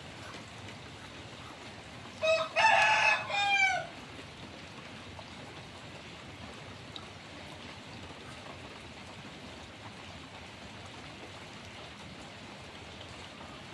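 Steady rain falling. A rooster crows once, about two seconds in, in a single call that falls in pitch at its end.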